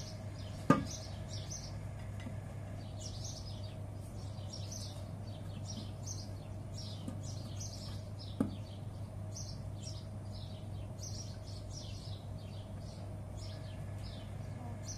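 Small birds chirping over and over in quick short calls, over a steady low hum. Two sharp knocks stand out, one about a second in and a softer one about eight seconds in.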